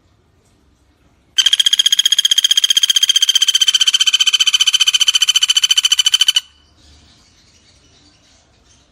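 Common flameback woodpecker (pelatuk bawang) giving one long, rapid trilling rattle call of about five seconds. The call starts about a second and a half in, its pitch sinks slightly, and it cuts off suddenly.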